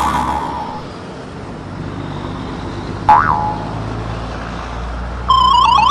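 Electronic cartoon-style sound effects over a steady low rumble: a sharp click with a short springy pitch swoop about three seconds in, then near the end a loud, rapid run of chirps that each fall in pitch.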